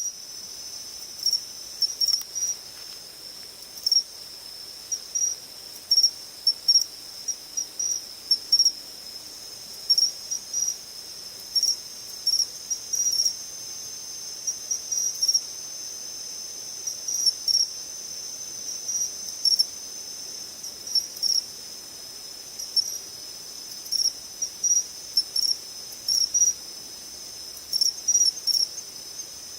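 Singing insects: a steady high trill runs throughout, and louder short chirps come in irregular groups of a few at a time.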